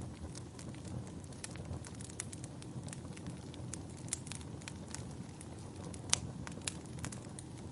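Fire burning in a fireplace: a low steady rumble of flames with frequent small crackles and pops, the sharpest pop about six seconds in.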